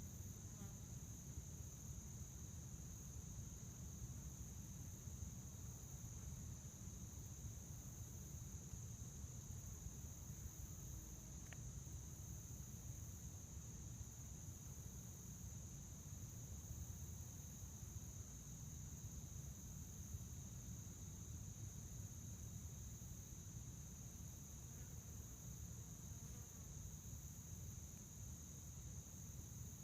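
Crickets chirping in a steady, unbroken high-pitched chorus, over a faint low rumble.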